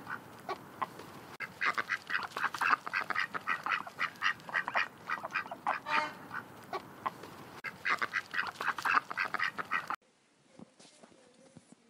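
Several ducks quacking in quick runs of short calls. The calls stop abruptly about ten seconds in.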